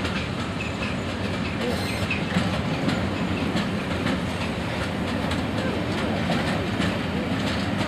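Passenger coaches of a steam-hauled train rolling past over pointwork, their wheels clicking steadily over rail joints and crossings.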